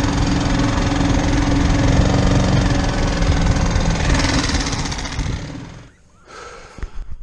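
Boat engine running steadily, fading out about six seconds in, followed by a few brief knocks.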